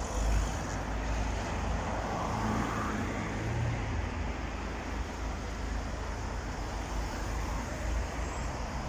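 Steady street traffic noise: the rumble of vehicle engines passing and running.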